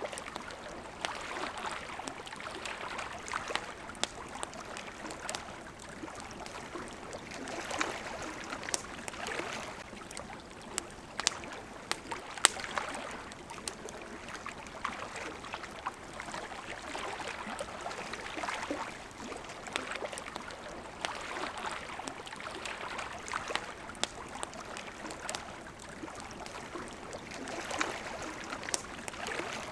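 Small waves lapping at a shore, swelling and falling back every few seconds, with a crackling campfire giving scattered sharp pops over it; the loudest pop comes about twelve seconds in.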